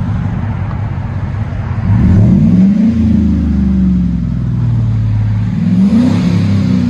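A Chevy Silverado's 5.3-litre V8 idles, then is revved twice through a true dual exhaust with a Borla Pro XS and an 18-inch Magnaflow muffler in series. Each rev rises and falls back: the first about two seconds in, the second near the end.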